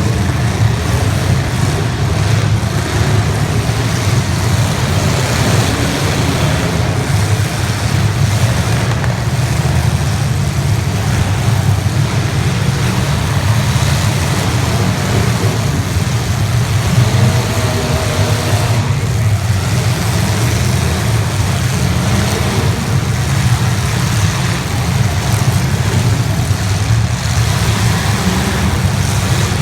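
Engines of 1980s stock demolition derby cars running loudly together, a dense, steady low rumble.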